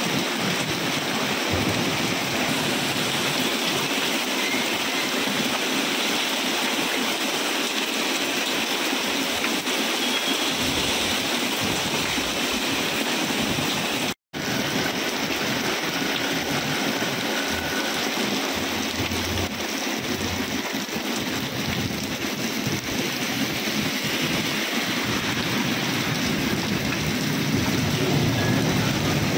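Rain falling steadily on a wet street, a constant hiss of water. The sound cuts out for an instant about halfway through.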